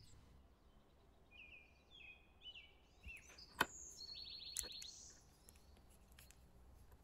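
Faint bird chirps and a short fast trill over quiet room tone, with a few sharp clicks; the loudest click comes about three and a half seconds in.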